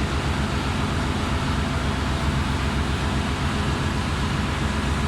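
Steady drone of running engine-room machinery, a dense low hum with a fast, even pulse underneath and a hiss on top, with no separate knocks or tool sounds standing out.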